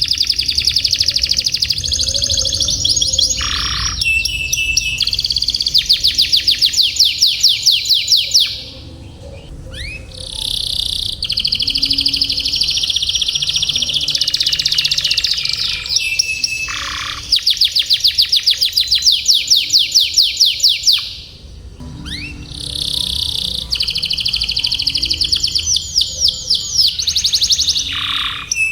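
Canary singing a long rolling song: rapid trills and warbles, high-pitched and continuous, broken by short pauses about a third of the way in and again about three quarters in.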